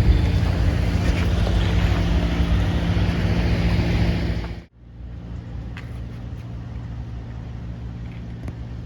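A machine running with a steady low hum. It drops out suddenly about four and a half seconds in, and a quieter steady hum carries on with a few faint ticks.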